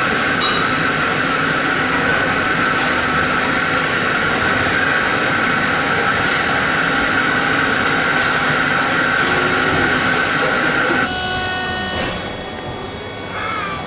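Wheel lathe machining a Shinkansen wheel back to its new-wheel profile, running with a steady whine, then stopping abruptly about three-quarters of the way through.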